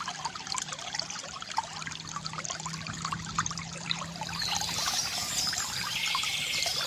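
Water trickling and splashing steadily from a bamboo fountain, with birds chirping in the background during the last couple of seconds.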